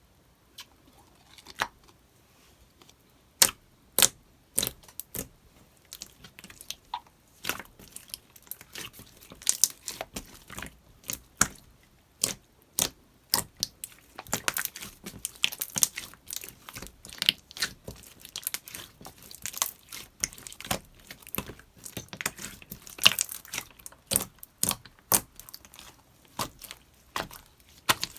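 Slime being squeezed and stretched by hand, making irregular sharp pops and clicks that come thicker from about halfway through.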